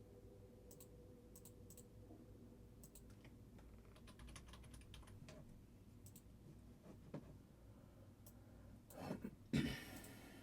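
Faint, scattered clicks of a computer mouse and keyboard, with a couple of louder clacks near the end.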